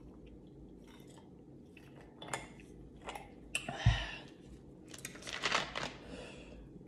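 Mouth noises of someone eating: chewing and lip smacking in short bursts, with a dull thump about four seconds in.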